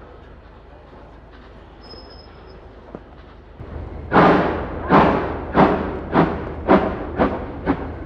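BR Standard steam locomotive starting away: after a few quiet seconds, loud exhaust chuffs begin about halfway in, each beat coming a little sooner and a little fainter than the last as it gets under way.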